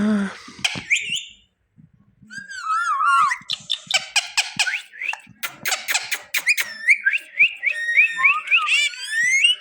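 Indian ringneck parakeet chattering and whistling: wavering warbled calls, then a quick series of short rising chirps, mixed with sharp beak clicks. The bird falls silent for a moment about a second and a half in.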